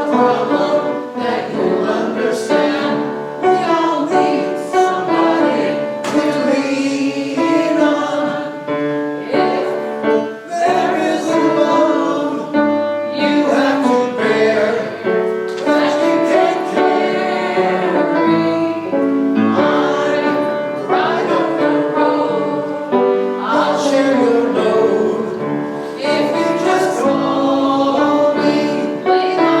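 Worship song sung by voices with piano accompaniment.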